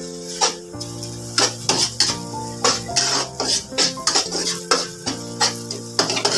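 A metal spatula or spoon stirring in a pan, knocking and scraping against it a few times a second at an uneven pace, over background music.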